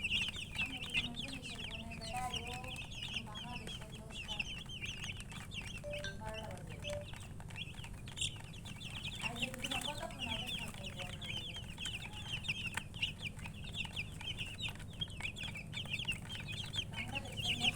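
A brood of chicks peeping continuously, many short high peeps overlapping, with a few lower calls now and then.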